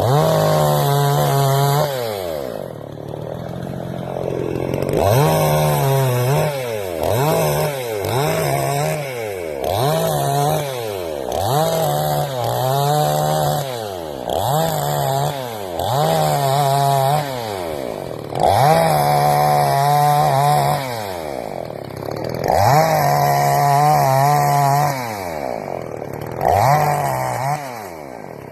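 Chainsaw revved up and let back down over and over, about fifteen times, the pitch climbing quickly, holding for a second or so and then falling away each time, with a few longer holds.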